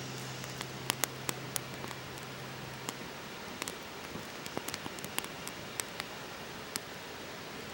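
Wood fire crackling: a steady hiss with irregular sharp pops and snaps, several a second at times.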